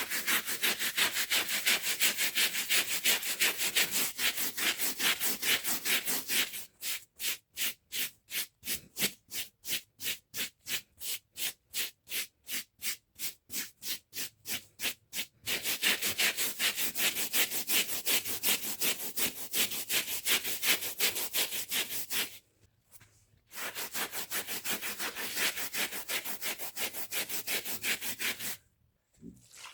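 Hand brush scrubbing a rug's fibres in quick back-and-forth strokes, about three to four a second, with two short pauses, about 22 seconds in and near the end.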